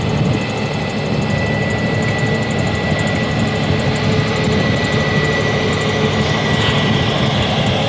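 Aeroplane engine and airflow noise heard from the passenger cabin: a steady rushing noise with a steady high whine over it.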